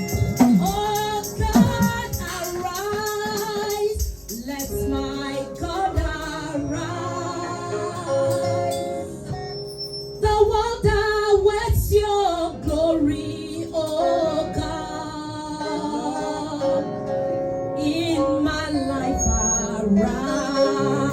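Gospel worship music: a woman singing over instrumental accompaniment with a steady beat.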